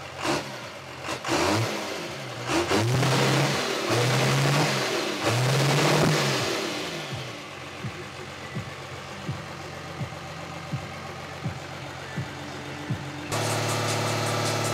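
A big pickup truck's engine is revved hard several times, each rev rising and falling, then blipped in a string of short, quick throttle stabs. Near the end the sound switches abruptly to a steady engine drone.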